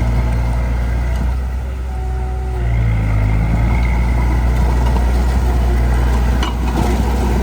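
Heavy earth-moving machine's diesel engine running steadily under load. Its note dips, then picks up again about three seconds in.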